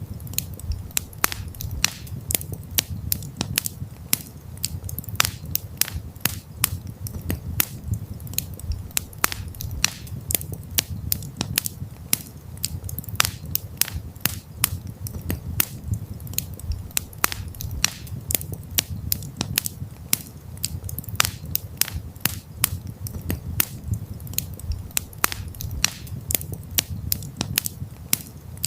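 Wood campfire crackling: frequent sharp, irregular pops and snaps over a low, steady rumble of burning.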